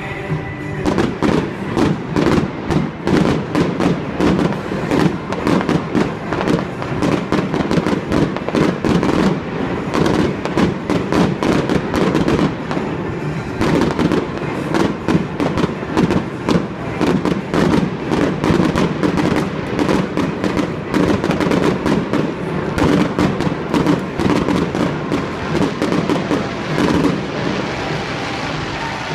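Fireworks display going off in a dense, rapid barrage of bangs and crackles, with a brief lull about halfway through.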